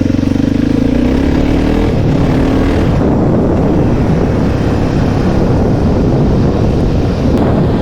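Honda XR650R single-cylinder four-stroke motorcycle engine running: a steady engine note for about two seconds, then a rougher, noisier rush as the bike gets under way.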